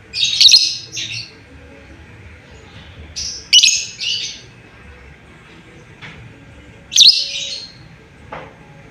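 Lovebird giving high-pitched calls to its companions in three bursts about three and a half seconds apart, each a loud call followed by a shorter one.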